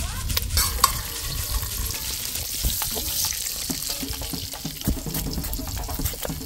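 Diced pork belly frying in hot oil in a pan, a steady sizzle with scattered clicks and scrapes from stirring.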